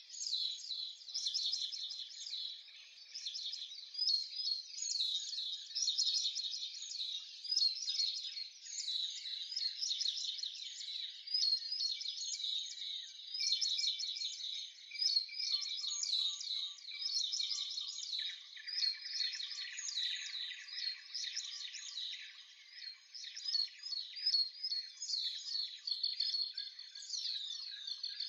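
Many small songbirds chirping and twittering at once: a dense, unbroken run of quick high calls, with a lower call joining about halfway through.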